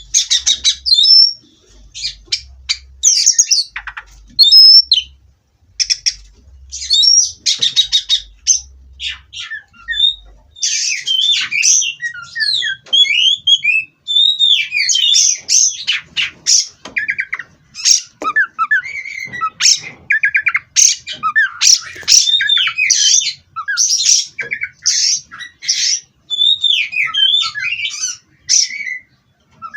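Oriental magpie-robin (kacer) singing a fast, varied song of whistled notes, rapid sweeps and rattling trills, in phrases broken by short pauses.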